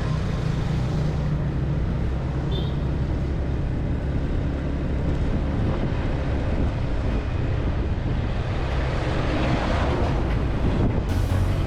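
Steady low rumble of a motorbike being ridden, engine and road noise together, with a rushing sound that swells briefly near the end.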